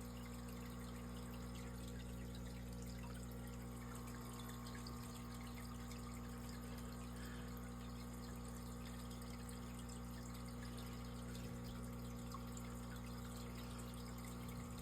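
Aquarium filter running steadily: a low motor hum with water trickling and dripping.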